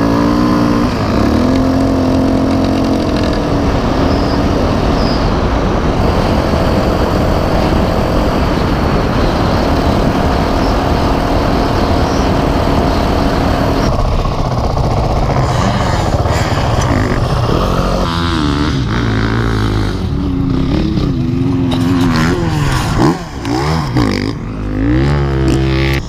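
Dirt bike engines running while being ridden. In the second half the engine pitch rises and falls over and over as the throttle is opened and closed.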